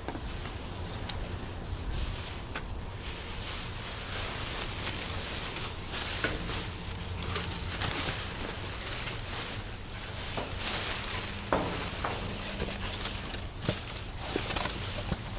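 Rummaging through discarded items in a dumpster: rustling and scattered light clicks and knocks of things being handled, over a steady background hiss.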